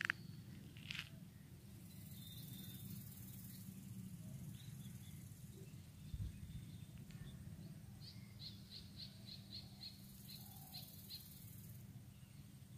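A bird calling in a quick run of about eight short, high notes, a few a second, in the last third. There is a steady low rumble throughout, and a couple of light crunches, like footsteps in dry grass, at the start.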